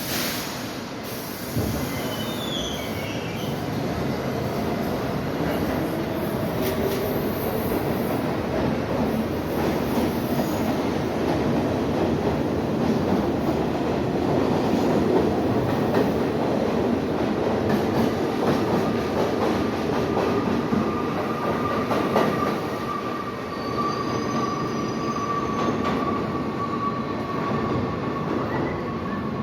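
R68 subway train running on the rails, a steady rumble and rattle of wheels and car body. A high wheel squeal comes and goes early on and holds as a steady tone through the last third.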